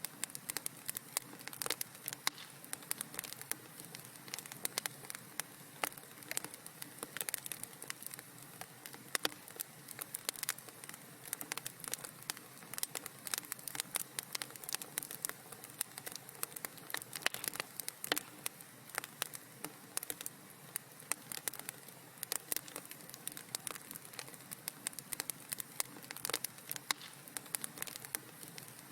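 Wood fire in a fireplace crackling steadily, with dense irregular pops and snaps over a soft hiss.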